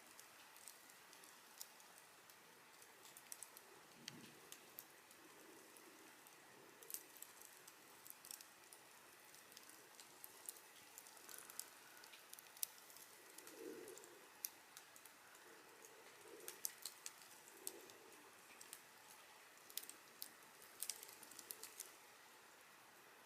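Quiet wood campfire crackling: irregular sharp pops and ticks, clustered in places, over a faint steady hiss of the flames.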